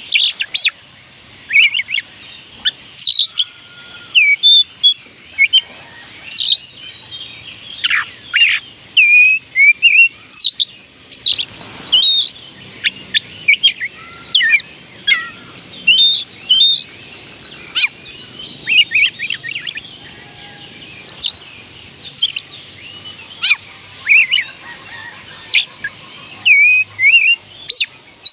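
Oriental magpie robin singing: a fast, varied run of short whistled notes and quick up-and-down pitch sweeps, with brief gaps between phrases.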